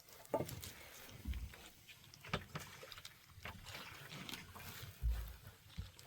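Water splashing and scattered knocks from hands-on work in the wet, with two dull thumps, one about a second in and one about five seconds in.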